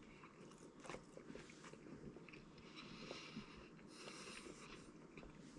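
Faint chewing of a mouthful of fast-food sandwich, with soft scattered mouth clicks.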